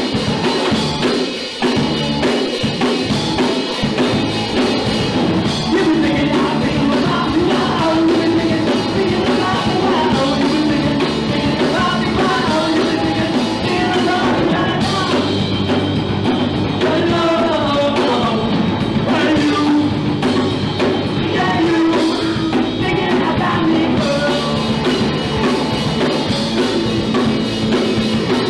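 Punk rock band playing live: loud drum kit, distorted guitars and bass, with a vocalist singing through the middle.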